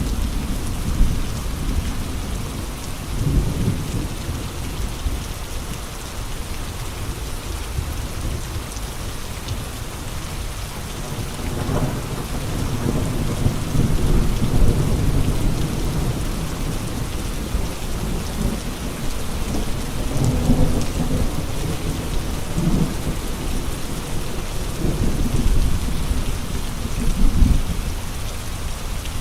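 Steady rain with gusting wind: a constant hiss of rain under a low rumble that swells and eases several times.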